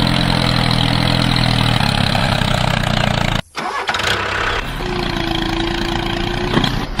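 Engine running steadily. It cuts off abruptly about three and a half seconds in, and a different engine sound with a steady hum takes over.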